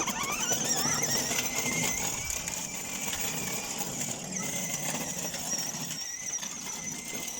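A continuous high-pitched squeal that starts suddenly, rises in pitch over the first second or so, then holds steady.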